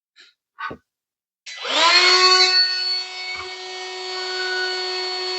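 Wood router switched on about one and a half seconds in, its high whine sweeping up as the motor spins up and then holding at a steady pitch while it runs free, not yet cutting. A couple of light clicks come just before it, and a dull knock partway through.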